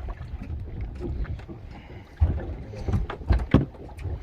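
Low rumble of wind and movement aboard a small fishing boat at sea, with three sharp knocks: one about two seconds in and two close together about three and a half seconds in.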